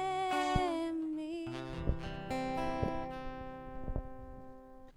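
Acoustic guitar music: plucked notes and chords ringing out and slowly fading away.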